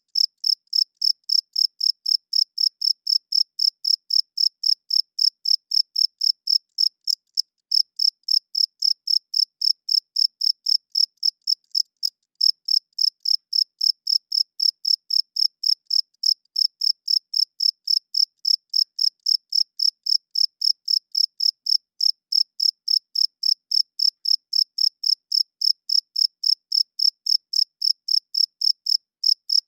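Cricket chirping: a steady train of short, high-pitched chirps, about three a second, broken by brief pauses twice.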